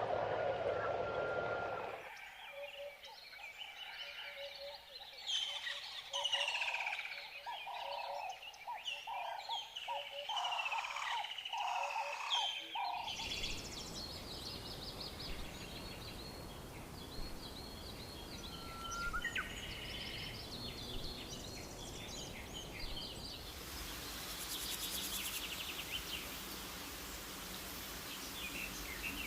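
Outdoor birdsong ambience: several birds chirping and singing in quick whistled and trilled phrases. The recording changes abruptly a couple of seconds in and again about halfway, and a thin, dense high chirring joins near the end.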